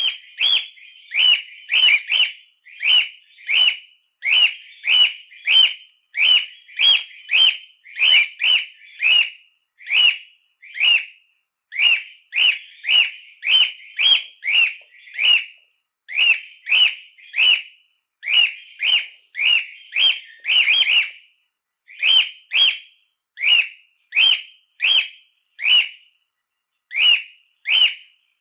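Cockatiel calling: a long series of short, shrill whistled calls, roughly one to two a second, with a few brief pauses.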